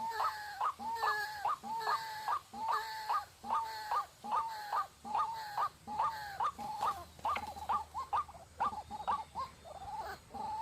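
White-breasted waterhen giving its repetitive 'ruak-ruak' call, a series of about two hoarse hooked notes a second that become quicker and choppier near the end.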